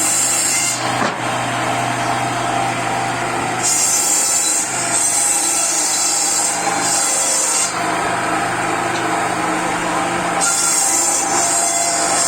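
Power saw cutting wood: a steady motor hum, with the high hiss of the blade in the wood coming and going several times.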